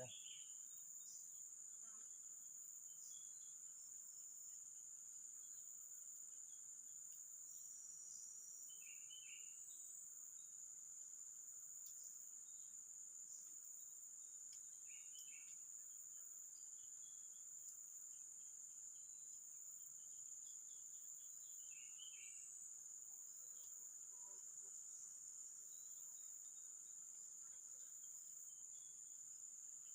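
Steady high-pitched drone of insects, crickets, running throughout, with a few faint short bird chirps about three times.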